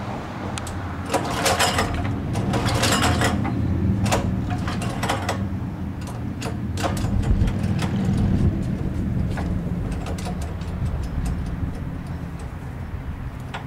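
A small engine running steadily, with irregular clanks, knocks and rattles over it, heaviest during the first few seconds.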